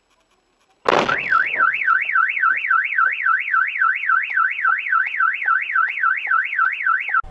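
A sudden loud bang, then a car alarm siren warbling rapidly up and down, about three sweeps a second, until it cuts off abruptly.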